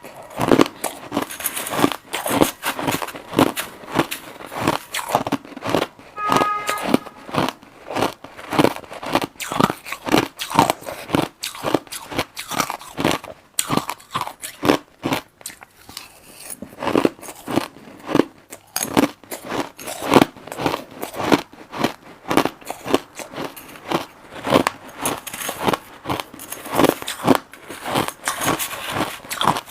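Crushed ice being bitten and chewed close to the microphone: a rapid, uneven run of crisp crunches, easing off briefly around the middle before picking up again.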